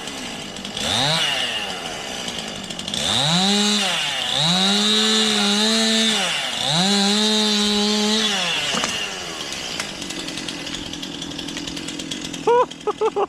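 Chainsaw revving to full throttle in one brief rev and then three held bursts, dropping back between them, while cutting through a large maple limb, then settling to idle. Near the end come four short, loud, high blips.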